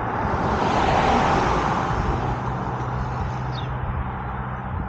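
A road vehicle passing by: tyre and engine noise swells over about a second, then slowly fades away. A short high chirp sounds near the end.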